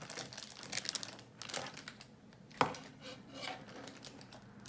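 Faint handling noises of a blind-bag toy being unpacked: crinkling packaging and small plastic clicks, with one sharper click about two and a half seconds in.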